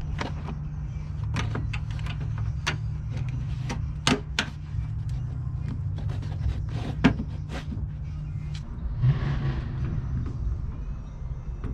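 Scattered, irregular clicks and light knocks of car body panels, clips and hand tools being handled during fender fitting, over a steady low hum, with a brief hiss about nine seconds in.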